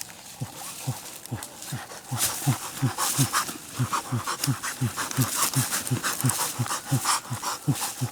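An animal making short, low calls over and over, each dropping in pitch, about three a second, with breathy hiss alongside. The calls grow louder about two seconds in.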